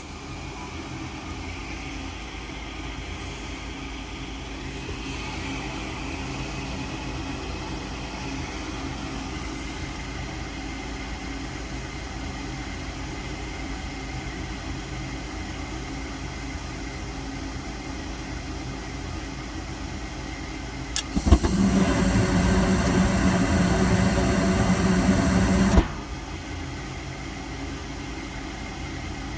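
Gas furnace running on an ignition attempt: a steady motor hum throughout. About two-thirds of the way through, a click brings a loud rushing noise with a deep hum, which stops abruptly with another click after about four and a half seconds.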